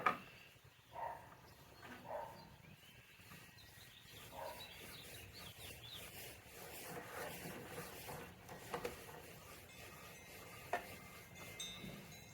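Faint rubbing and scraping with scattered light clicks and a knock at the start, as small metal parts and tools are handled while a scooter mirror mount is reassembled and its threads are coated with anti-seize.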